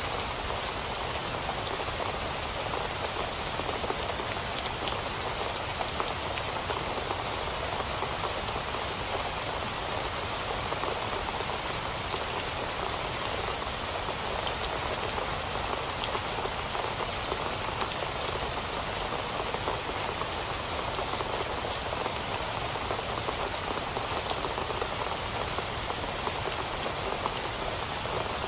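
Steady rain falling on a surface, a constant hiss with fine individual drop ticks scattered through it.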